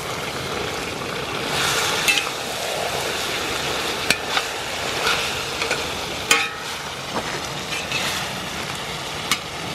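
Chopped meat (bacon, pork and chorizo) sizzling as it fries in a steel disc cooker, or cowboy wok, while a metal spatula stirs and scrapes through it. A few sharp clinks of the spatula on the pan, one with a brief ring about six seconds in.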